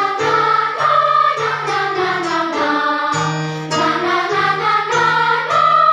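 Children's choir singing a melody in held notes over instrumental accompaniment with a steady bass line.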